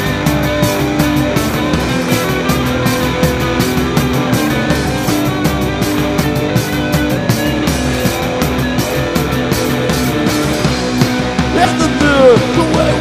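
Rock band playing live, a loud instrumental passage of guitar, bass and drums with steady cymbal hits. Near the end, high notes slide and bend.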